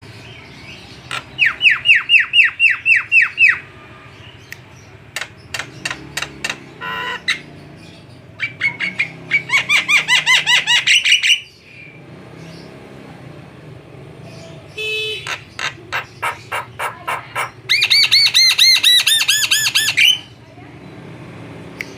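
Javan myna (jalak kebo) calling in several loud runs of rapidly repeated chattering notes, each run lasting two to three seconds with short pauses between.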